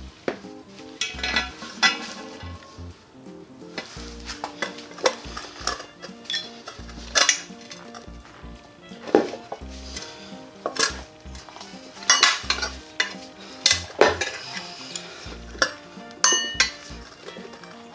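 Metal tools and parts clinking and knocking irregularly, some strikes ringing briefly, as work goes on at a scooter's front wheel.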